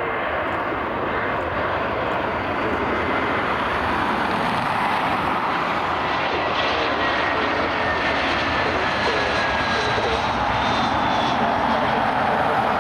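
Airliner engines running with a steady roar and a faint high whine that slowly falls in pitch as the aircraft passes; the roar grows a little louder toward the end.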